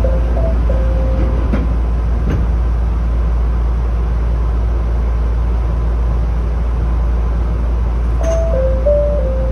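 Running noise of a Chichibu Railway 7500 series electric train, heard from inside the rear car: a steady low rumble with a couple of sharp clicks early on. Short stepped tones sound at the start and again near the end.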